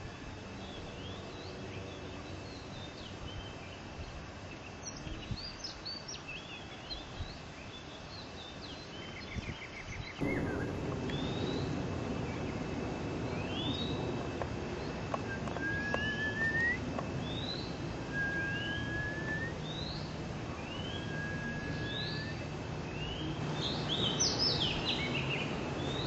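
Wild birds chirping and calling: many short rising chirps repeated throughout, with a few longer whistled notes in the second half, over steady outdoor background noise that gets louder about ten seconds in.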